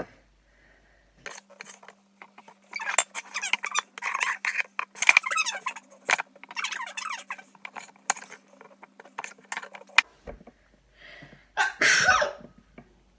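A girl sneezes once, loudly, near the end. Before it comes a long stretch of quick clicks, knocks and jumbled sounds over a steady low hum, which stops suddenly.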